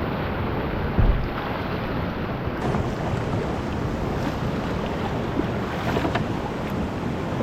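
Whitewater rushing, with wind noise on the microphone, while kayaking down a river. A loud low thump about a second in.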